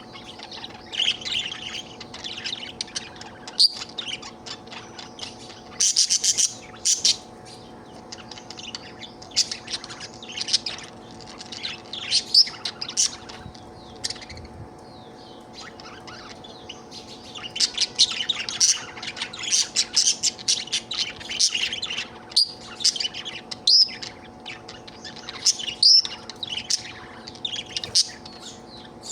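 Budgerigar chirping and warbling in fast, busy runs of short chirps, with a quieter lull about halfway through. A faint steady hum sits underneath.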